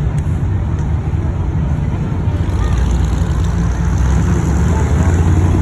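Deep engine and exhaust rumble of a car driving by, growing louder over the second half.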